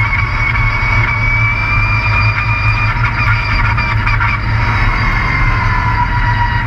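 Race truck engine running, heard from on board, a steady low rumble with a high whine that rises slightly and then drops a little about four seconds in.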